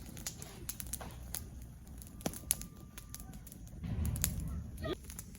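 Small twig bonfire crackling, with irregular sharp pops and snaps. A low rumble comes in about four seconds in.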